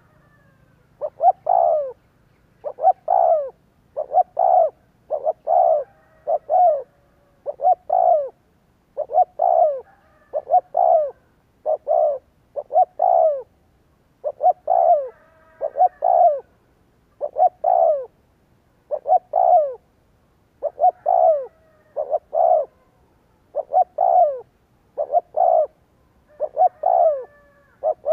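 Spotted dove cooing over and over: phrases of two or three short, falling coos, repeated with short pauses. This is the call used as a decoy to provoke wild males.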